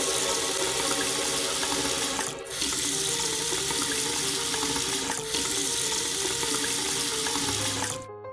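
Running water, a steady gush that breaks off briefly about two and a half seconds in and fades out near the end.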